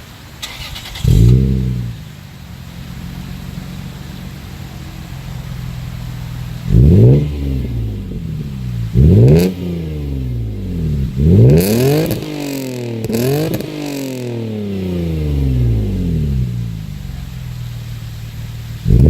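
2002 Lexus GS300's inline-six running through an aftermarket Tanabe cat-back exhaust with a Megan Racing mid pipe. It starts up about a second in, flares and settles to a steady idle. From about seven seconds on the throttle is blipped several times, each rev rising sharply and falling back to idle.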